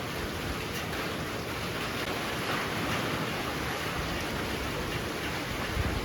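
Heavy rain pouring down in a steady hiss, swelling a little about halfway, with a brief low rumble near the end.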